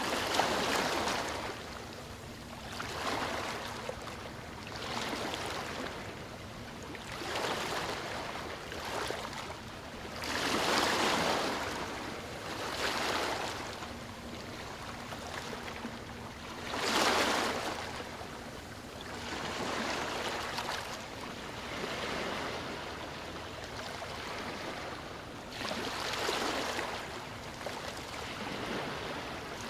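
Sea waves washing ashore, the surf swelling and fading every two to three seconds, with bigger breakers about eleven and seventeen seconds in.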